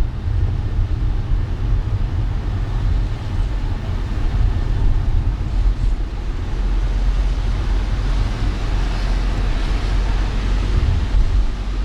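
Car driving in city traffic on rain-wet roads: a steady low rumble with a hiss of tyres on the wet surface, growing a little louder near the end.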